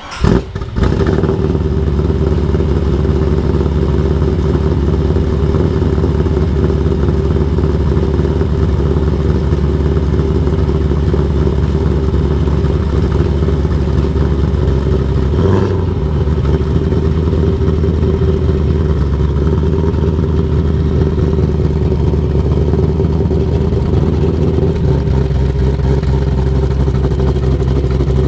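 LS1 V8 in a BMW E36 running steadily, heard through its exhaust. The engine note changes briefly about halfway through and shifts again near the end.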